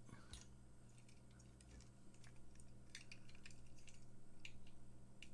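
Faint scattered clicks and taps of a small die-cast toy car being handled and fitted, over a low steady hum.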